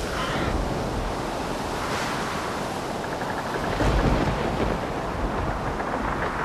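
Stormy sea ambience of waves and wind, with a louder low rumble about four seconds in.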